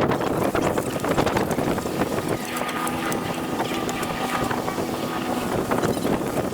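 Wind buffeting the microphone and water rushing past a sailboat's hull while it is under way, with a steady droning tone joining about two and a half seconds in.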